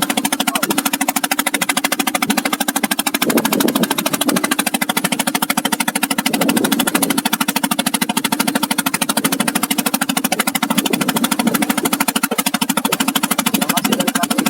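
Small boat's inboard engine running steadily, a rapid, even knocking beat with a low drone underneath.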